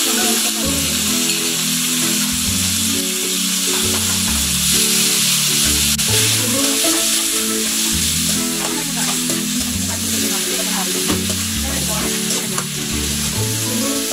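Marinated chicken pieces frying in hot oil in a nonstick wok: a steady sizzle, with scrapes and clicks of a metal spatula stirring them, more of them in the second half. Background music with a repeating bass line plays underneath.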